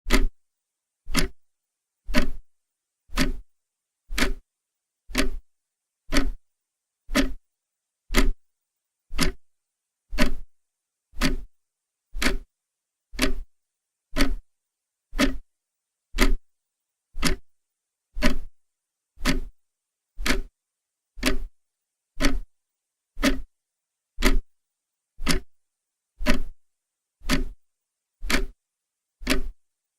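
Clock ticking steadily, one sharp tick a second with silence between ticks.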